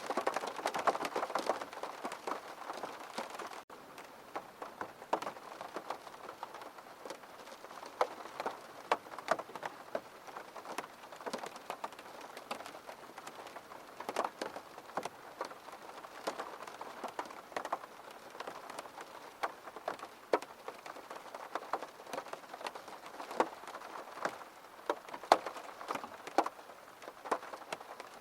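Steady rain with many separate, sharp drops striking a hard surface, with a brief drop-out about four seconds in.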